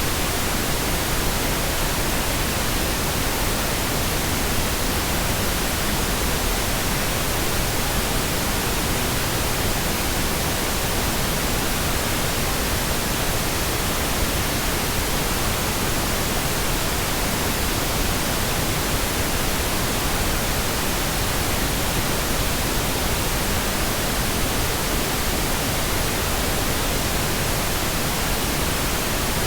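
Steady, unchanging pink noise: an even hiss spread across the whole frequency range.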